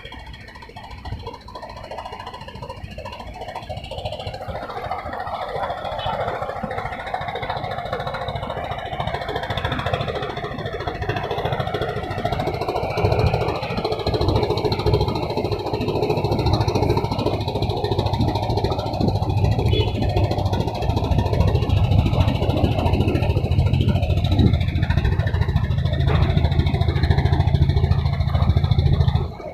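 An engine running with a steady low hum that grows steadily louder, then stops abruptly just before the end.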